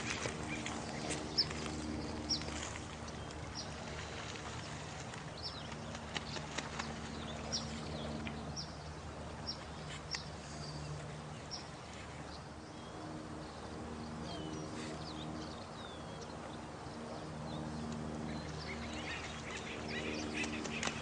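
Night nature ambience: short, high, falling chirps repeating about once a second over a low steady hum that fades out and back in, with scattered clicks.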